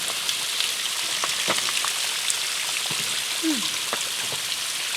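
Small waterfall with a light flow of water splashing down: a steady hiss of falling water broken by scattered drips and splashes.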